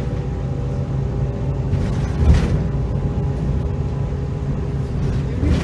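Heuliez GX327 GNV city bus running on its natural-gas engine, a steady low rumble with a held engine tone. A single loud thump about two seconds in.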